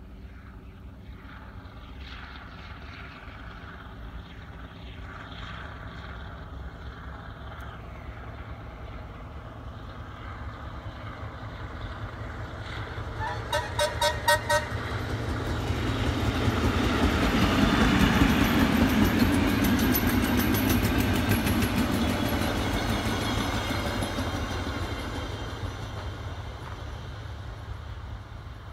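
A train approaching and passing, with a short pulsing horn toot of about a second midway through. It gets loudest a few seconds after the horn, with dense wheel clatter and a thin high whine, then fades away.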